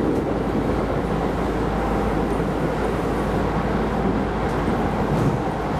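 Keisei Line electric train running along the track, a steady rumble of wheels and running gear heard from inside the car.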